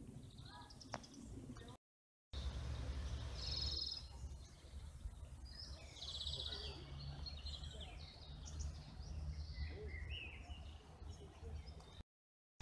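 Several songbirds singing: quick high trills and short chirps, one after another, over a steady low rumble. The sound cuts out completely for a moment twice.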